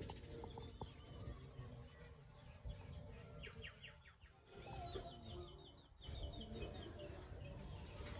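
Small birds chirping in the background: a quick run of short notes about three and a half seconds in and a trill of repeated notes about five seconds in, over a low rumble.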